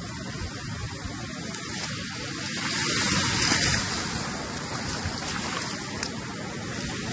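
Black Sea waves washing in, with a louder surge about three seconds in, and wind buffeting the microphone.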